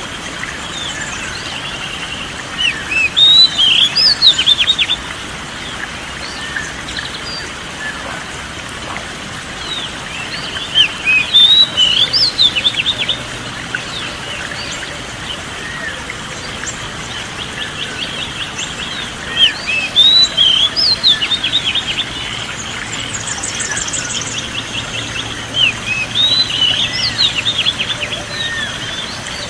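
Songbirds singing outdoors: four loud bursts of rapid, varied chirping song, about every seven seconds, over a constant high chirring chorus.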